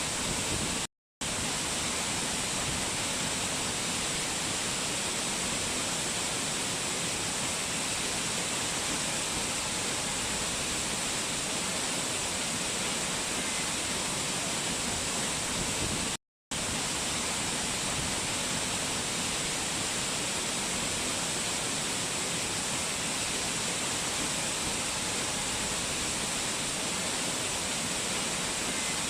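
Rushing water of a mountain waterfall, a steady hiss with no let-up. It cuts out to total silence twice for a split second, about a second in and again about sixteen seconds in.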